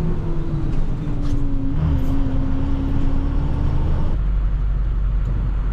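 International TerraStar plow truck running, with a whine that drops in pitch over the first second, holds steady, then stops about four seconds in, over a steady low rumble.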